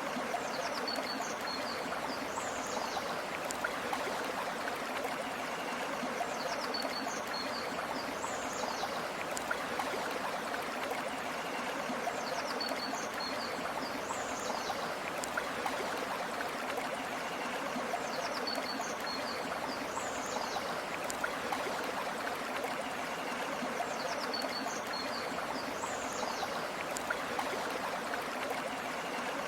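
A river stream flowing steadily. A short high chirping phrase comes back about every six seconds, five times over.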